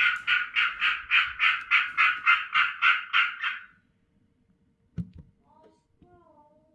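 Japanese tree frog calling: a rapid run of about fourteen repeated croaks, about four a second, that stops after about three and a half seconds. A single knock follows about five seconds in, with a few faint wavering tones near the end.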